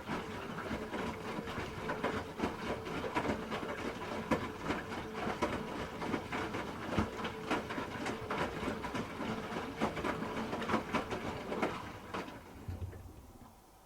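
Hoover H-Wash 300 Plus washing machine turning its drum: a steady motor whine with irregular clatter from the tumbling load. It stops about thirteen seconds in.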